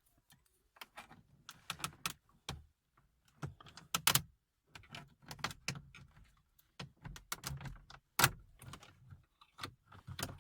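Plastic clicks, scrapes and rattles as a plastic pry tool works under the plastic dashboard trim frame around the car radio, levering it loose from its retaining clips. Irregular sharp clicks, the loudest about four and eight seconds in.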